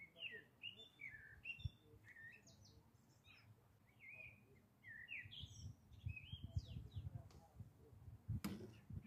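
Faint birdsong: a string of quick chirping notes sliding up and down. Low rumbling noise joins in the second half, and a single sharp click comes near the end.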